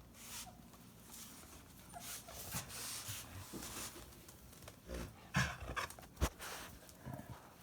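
Puppies playing and scuffling, with a few faint short whines and two sharp knocks in the second half.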